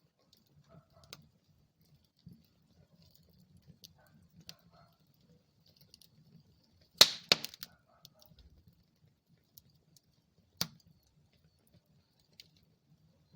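Wood fire crackling in a fireplace: a soft low rustle of flames with scattered small ticks. About halfway through comes a quick burst of loud pops, then a single sharp pop a few seconds later.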